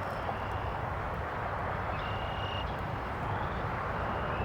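Steady droning buzz of a disturbed honeybee colony swarming around an opened hive during an inspection. The bees are agitated by the frames being pulled.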